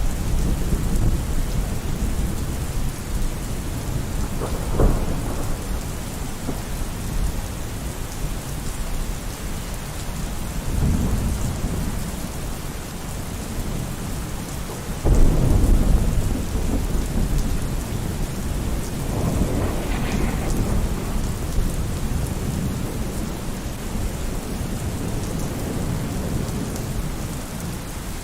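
Steady heavy rain with rolling thunder: low rumbles swell several times, the loudest crack of thunder breaking about halfway through.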